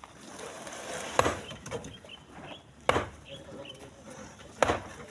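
Split stones landing one by one in a truck bed as they are loaded by hand: three heavy knocks, evenly spaced about every second and a half to two seconds.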